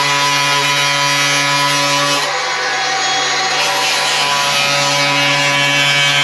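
Angle grinder running with a steady high whine while it cuts metal and throws sparks. Partway through, the whine gives way to harsher grinding noise for a couple of seconds as the disc bites, then settles back.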